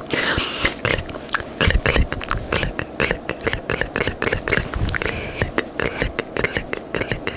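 Close-miked ASMR mouth sounds: fast, irregular wet tongue clicks and licking noises, several clicks a second.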